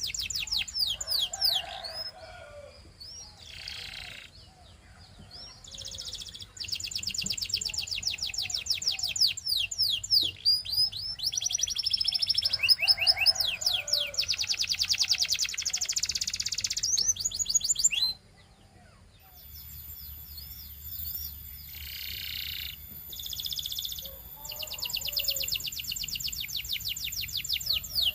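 Canary singing: long runs of fast, evenly repeated high notes and rolling trills, broken by short pauses. The song drops away briefly about 18 seconds in and then resumes in shorter phrases.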